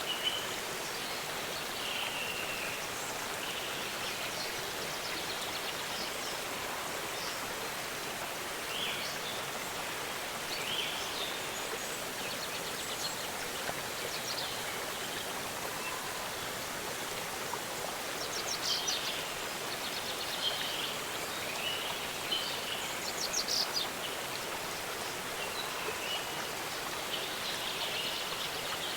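Waterfall rushing steadily, with small birds chirping over it now and then, and two rapid trills in the second half.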